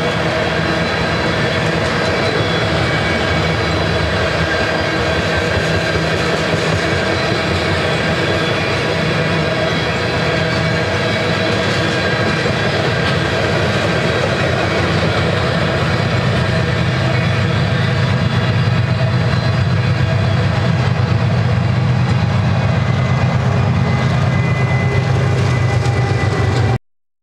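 Loaded tank cars of a freight train rolling past with steady wheel-on-rail noise. From about two-thirds of the way in, the diesel engines of the rear distributed-power locomotives grow louder as they approach. The sound cuts off abruptly near the end.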